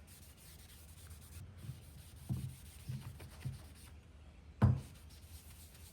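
A cloth rubbing over the body of a new hand plane as it is wiped down, with a few soft knocks and one sharper thump near the end as the plane is handled.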